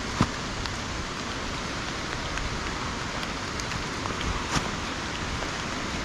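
Steady rain falling, with a few drops ticking close by now and then.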